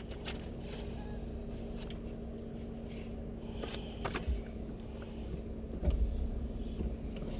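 Jeep Wrangler idling steadily, heard from inside the cabin, with light clicks and paper rustling as manual pages are turned. A low thump comes about six seconds in as the gear lever is moved.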